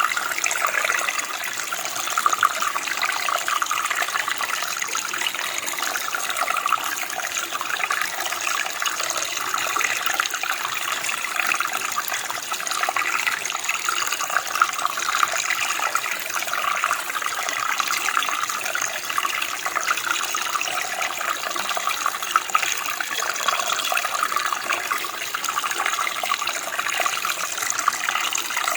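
Running water from a stream or creek flowing over rocks: a steady, even rush with no change.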